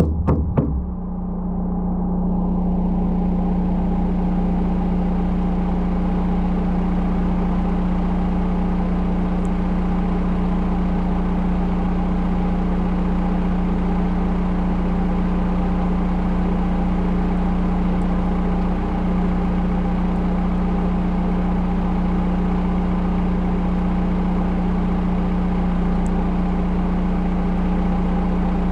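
Volvo L110 wheel loader's diesel engine running at a steady, even hum. A few sharp knocks come in the first second.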